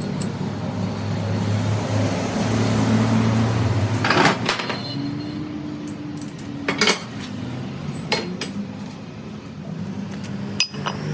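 Metal parts and tools clinking and knocking against each other, several sharp strikes spread across the seconds, over a steady low machine hum in a workshop.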